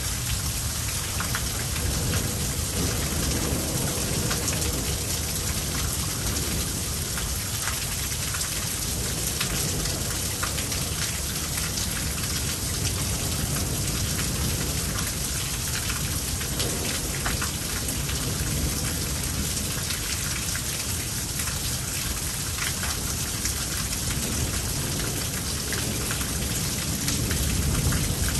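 Heavy thunderstorm rain falling steadily, close drops spattering over a constant hiss, with a low rumble underneath that swells slightly near the end.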